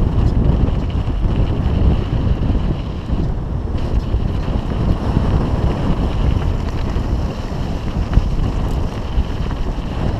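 Wind buffeting the microphone of a camera on a mountain bike riding downhill at speed, over a steady low rumble from the tyres on the trail.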